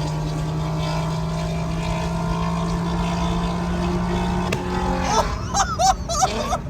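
Straight-piped, catless VW R32's 3.2 L VR6 exhaust droning loudly at steady cruising revs, the pitch creeping up, then dropping about four and a half seconds in as the throttle comes off or it shifts. Near the end, a person's excited voice cuts in over it.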